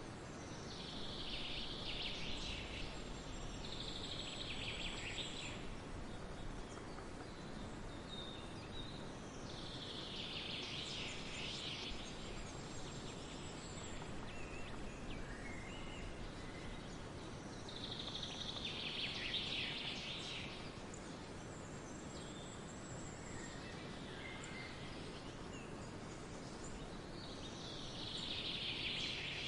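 Forest birdsong: a songbird gives dense, twittering phrases of about two seconds, repeated every several seconds, with a few short chirps between them, over a steady background hiss.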